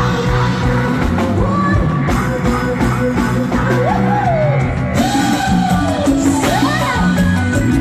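Live band music with a singer holding and sliding long sung notes over a steady band accompaniment with drums.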